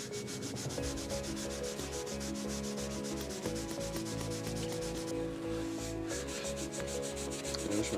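Microfibre strip charged with Autosol polish rubbing back and forth around an LS crankshaft journal, about four strokes a second, polishing off surface rust.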